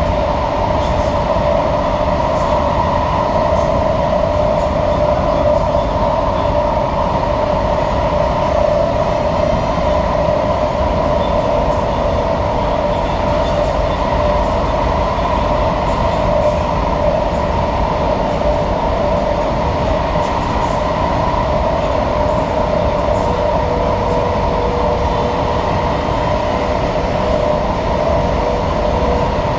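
Interior of an SMRT C151A (Kawasaki-Sifang) metro car running in a tunnel, with a loud, steady screech in two tones over the low rumble of the wheels on the rails. A third, lower tone joins near the end. The screech is a known fault of these KSF A trains in tunnels.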